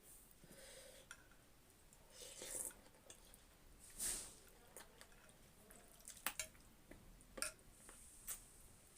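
Quiet eating of chicken noodle soup: a couple of short slurps of noodles and broth, then a few light clicks of a utensil against the bowl.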